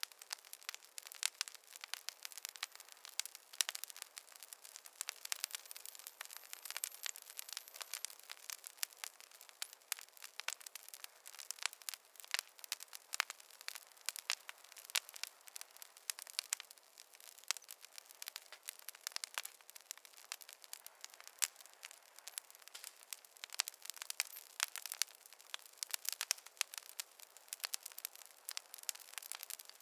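Campfire burning, a steady crackle with frequent sharp pops at irregular intervals.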